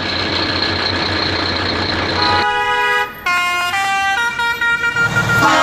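A noisy, engine-like rumble with a steady high whine, then about halfway through a musical vehicle horn plays a tune of several stepping notes.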